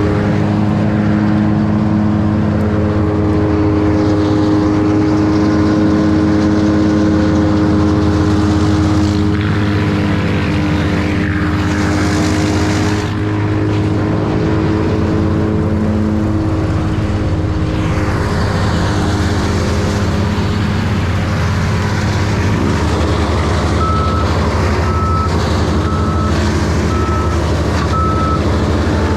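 Large engine of tree-work machinery running steadily, with a brief rush of harsher noise about twelve seconds in and an even beeping, about one beep a second, near the end.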